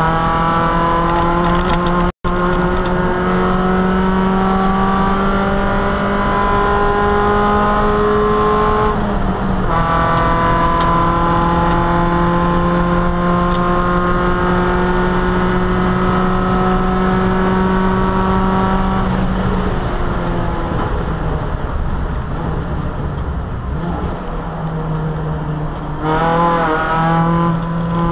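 Opel Kadett E race car's four-cylinder engine heard from inside the cabin, at full throttle with its pitch climbing steadily, one upshift about nine seconds in and another long climb after it. About two-thirds of the way through the driver lifts off and the engine note falls away, and near the end there are quick throttle blips on downshifts.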